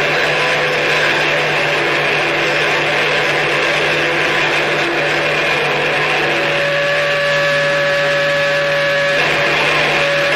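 Harsh noise music: a dense, steady wall of distorted electronic noise over a constant low hum. About six seconds in a cluster of held tones comes in on top, and it cuts off suddenly about three seconds later.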